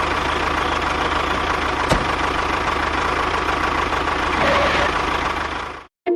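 An engine idling steadily with an even low pulse, a single sharp knock about two seconds in, cutting off abruptly near the end.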